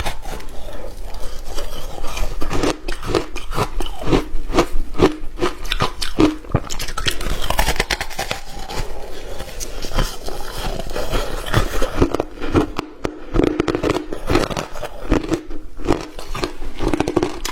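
Hard ice being bitten and chewed: a continuous run of sharp, irregular crunches, several a second.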